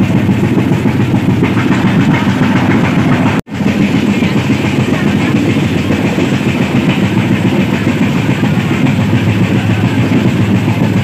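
Passenger train coaches running along the track, heard from beside an open coach door: a loud, steady, low rumble of wheels and rails. The sound breaks off for a split second about three and a half seconds in.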